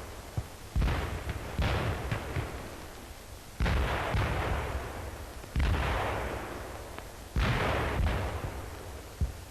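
Artillery fire: five heavy booms at uneven intervals of one to two seconds, each starting suddenly and rumbling away over a second or two.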